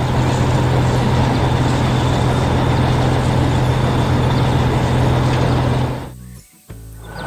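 Heavy vehicle engine running steadily with a low hum, cutting off abruptly about six seconds in.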